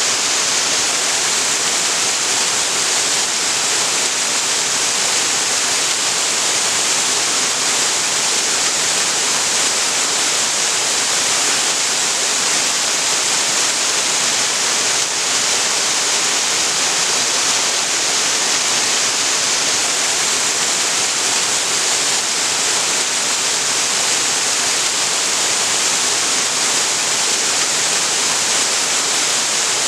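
Waterfall: a steady rush of falling water, loud and even, with its hiss strongest in the high range.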